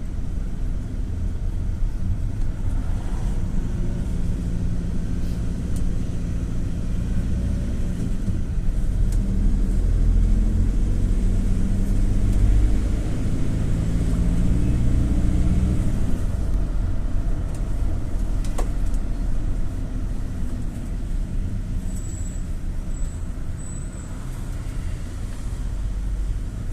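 GAZ-A68R52 Gazelle City minibus on the move, heard from on board: engine hum and road rumble, working harder and louder through the middle, then easing off. Three short high beeps near the end.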